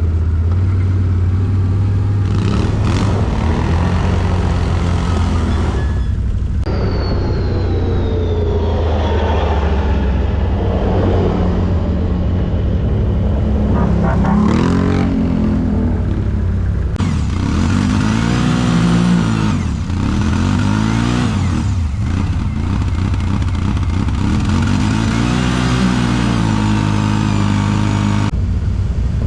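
ATV engines running and revving, their pitch rising and falling as the quads accelerate and slow, in several short takes that change abruptly.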